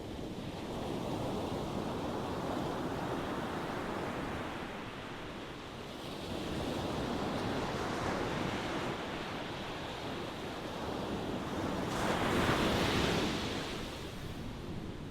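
Ocean waves breaking and washing ashore in slow swells, the loudest wave surging in about twelve seconds in and then receding.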